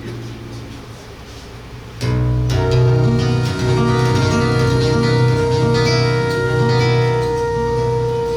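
Flute and seven-string guitar duo playing live: a couple of seconds of soft, fading guitar notes, then the guitar comes in loud with deep bass strums under one long held flute note.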